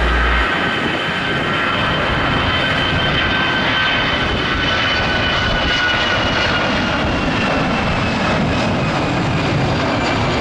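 Jet airliner engines running steadily, a constant rush with a high whine that drifts slowly lower in pitch.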